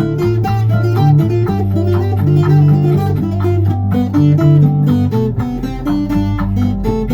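Cuban tres, tuned B-G-D, plucked in a run of notes over a backing track with bass and percussion.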